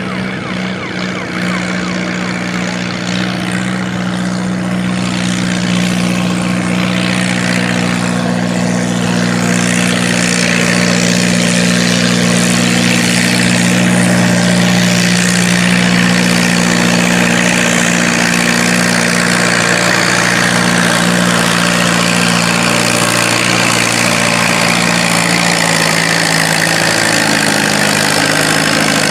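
Antique tractor engine running at a steady speed, getting louder over the first ten seconds or so and then holding level.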